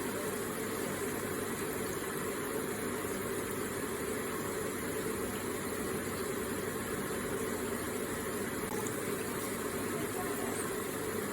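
Electric water feature running, its water trickling and splashing steadily without a break.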